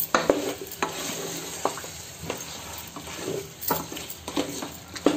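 Chicken pieces sizzling in oil in a pot while a wooden spatula stirs them, scraping and knocking against the pot about once a second over a steady frying hiss.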